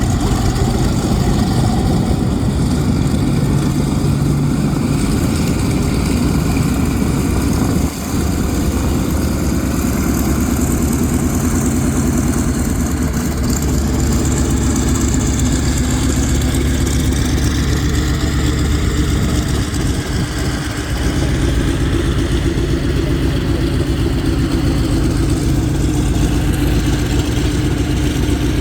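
Vought F4U Corsair's Pratt & Whitney R-2800 Double Wasp 18-cylinder radial engine running on the ground with a loud, steady drone. The sound dips briefly about 8 seconds in, and its pitch shifts slightly around 21 seconds.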